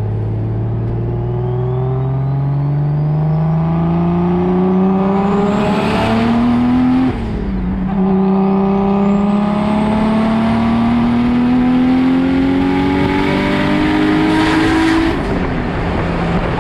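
Turbocharged BMW M52 straight-six with a Precision 6266 turbo accelerating hard through two gears. The engine note climbs steadily, drops at a quick upshift about seven seconds in, then climbs again until the driver lifts near the end. A thin high whine rises along with the revs.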